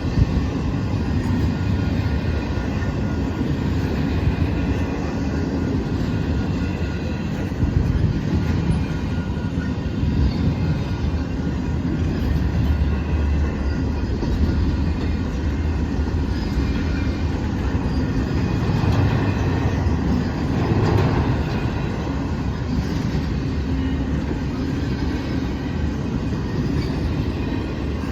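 Train passing close by: a steady, loud rumble of wheels on the rails, swelling slightly a couple of times.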